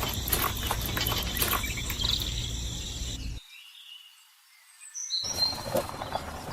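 Birds chirping over a noisy outdoor background full of small crackling clicks. The sound cuts out for about two seconds midway, then returns with a few short chirps.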